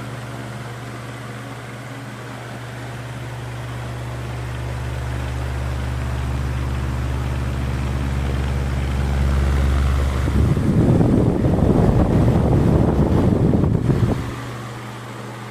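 Ventisol VOP 60 G4 60 cm wall fan running on its top speed setting: a steady motor hum with a rush of air that builds up over several seconds. About ten seconds in, its airflow blasts the microphone loudly for about four seconds, then drops back to the steady hum.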